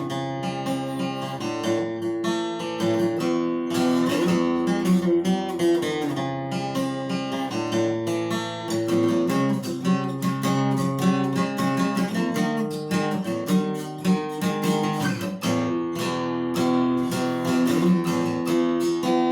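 Acoustic guitar playing strummed chords.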